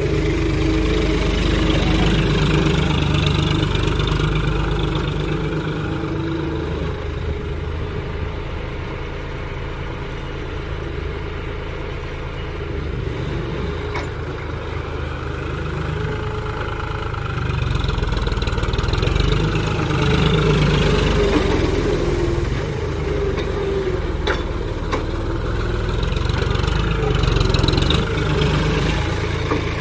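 John Deere tractor engine running steadily, its sound swelling louder and easing off several times as the load changes.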